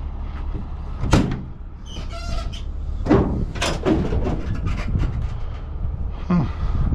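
Several sharp knocks and clanks, with a brief squeak about two seconds in, over a steady low rumble: metal panels and compartment doors on a large truck being handled.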